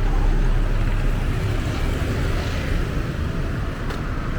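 Steady low rumble of street traffic, with a noisy haze of street sound above it.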